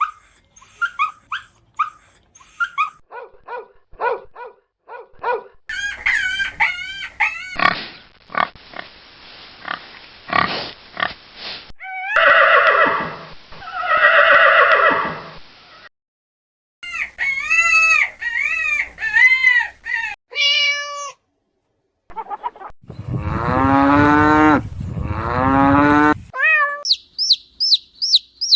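A run of different animal calls cut one after another: short repeated calls, a noisy stretch with clicks, and several longer pitched calls, the loudest with a falling pitch about three quarters of the way through.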